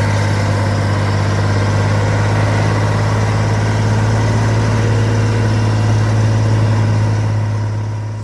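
Truck engine running steadily at an even idle, a loud constant low hum with no revving.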